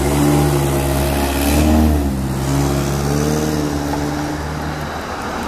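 A fire truck's engine running loud and pulling away, its pitch rising and falling a little as it accelerates.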